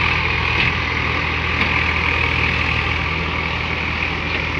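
Heavy vehicle's diesel engine running steadily at a constant speed.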